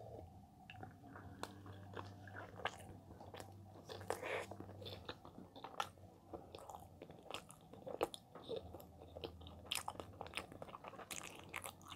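Close-miked chewing of soft, chewy cheese-filled bread: many faint mouth clicks and smacks at an uneven pace.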